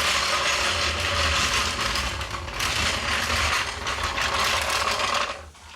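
Ratchet wrench working in a fast, continuous rattle for about five seconds, starting and stopping abruptly.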